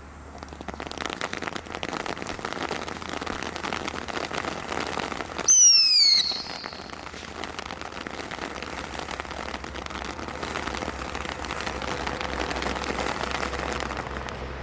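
Fireworks from a Brothers Pyrotechnics Bonfire Party selection box going off: dense crackling starts about half a second in and carries on throughout. Near the middle a loud whistle falls in pitch for under a second, the loudest moment.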